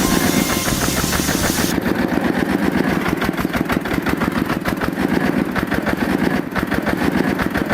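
Engine running with a rapid, even put-put. A high hiss over it stops about two seconds in.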